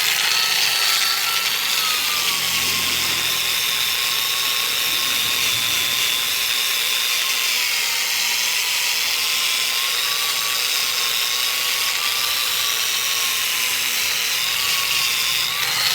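Restored Bosch angle grinder running free at speed, a steady high whine that wavers slightly in pitch and rises a little near the end. It is running smoothly again after restoration.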